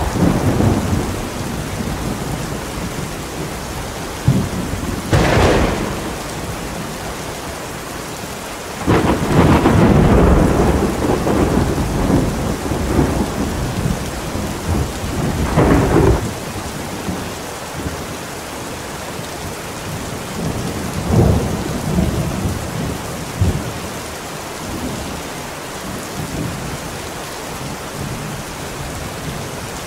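Steady heavy rain with rolling thunder: a sharp crack about five seconds in, a long loud rumble from about nine seconds that ends abruptly near sixteen seconds, and a lighter peal a few seconds later.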